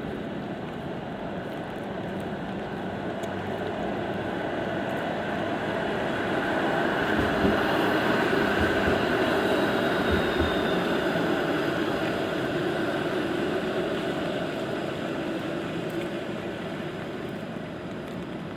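A passing vehicle on a rain-wet city street: a long swell of noise that builds to a peak about ten seconds in and then fades, over the hiss of light rain.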